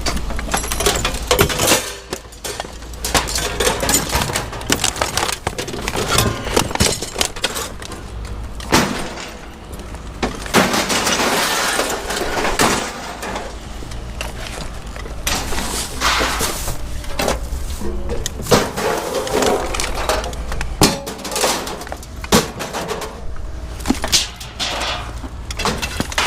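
Junk being rummaged through and tossed about in a dumpster: a run of irregular clattering, banging and clinking of hard objects, with a steady low rumble underneath.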